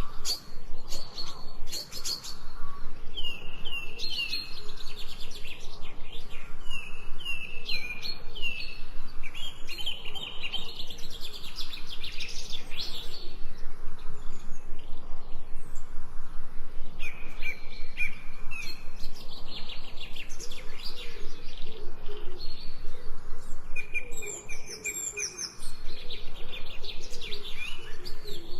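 Several birds chirping and singing, many short calls and downward-sliding notes overlapping. A lower-pitched call repeats underneath during the second half.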